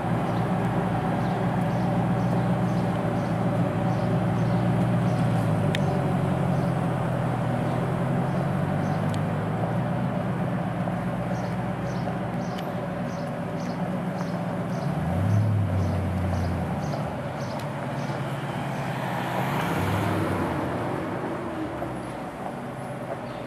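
TVR Chimaera 450's 4.5-litre V8 running at low revs as the car pulls away at walking pace. The deep, steady engine note lifts briefly a couple of times with light throttle.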